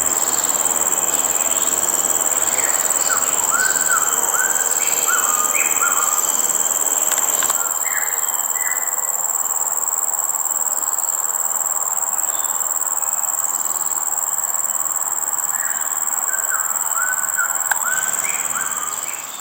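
Tropical forest ambience: insects keep up a steady, high-pitched drone while a bird gives short whistled calls in quick runs of several notes.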